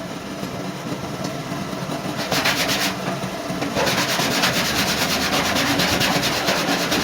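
Sanding on car body panels, a steady scratchy rasp that grows louder and more even about four seconds in.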